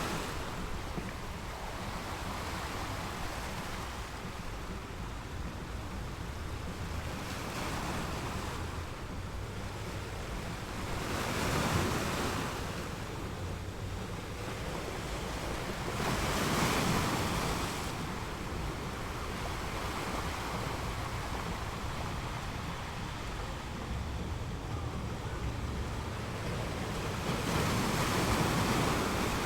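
Waves breaking in swells of surf noise every several seconds, over a steady low wind rumble on the microphone.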